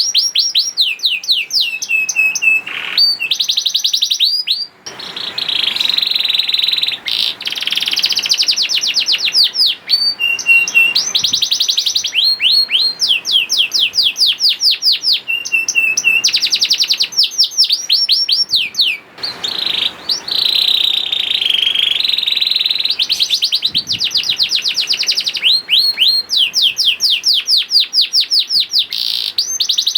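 Canary singing continuously, with fast trills of repeated sweeping notes broken by a few long held whistles. The phrase changes every few seconds.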